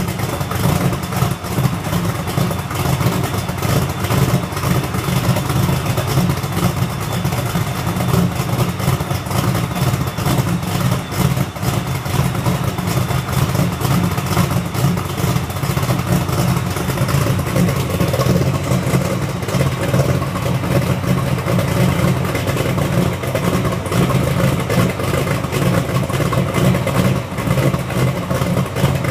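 Cammed LT1 383 stroker V8 idling through dual exhaust tips after a cold start. The engine keeps a steady, even beat with no revs.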